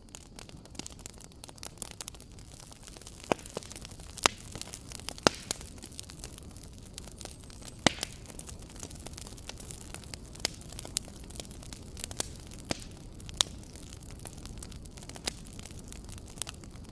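Wood fire burning in a fireplace: a steady low rumble and hiss of flames with sharp, irregular crackles and pops, a few of them much louder than the rest.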